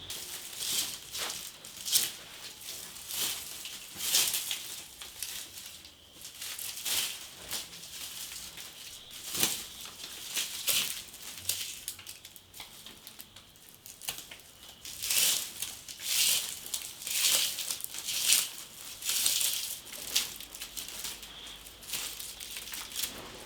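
Plastic mushroom grow bags crinkling and rustling as they are handled, in an irregular string of short crackly bursts.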